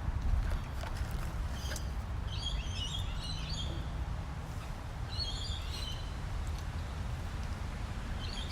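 Birds chirping in short bouts, about two seconds in, again about five seconds in and near the end, over a steady low rumble.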